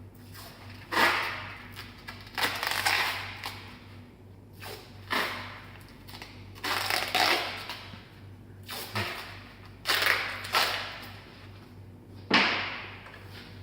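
Packing material being wrapped and pressed around a bike frame, rustling and crinkling in about ten short bursts. A steady low hum runs underneath.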